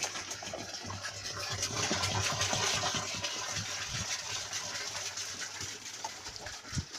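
Water being poured into a large drum: a steady gushing splash that tails off near the end.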